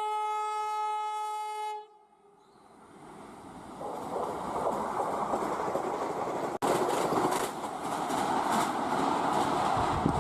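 A train horn sounds one steady blast that cuts off about two seconds in. Then a train's running noise builds and holds, with the rhythmic clatter of wagons passing over rail joints.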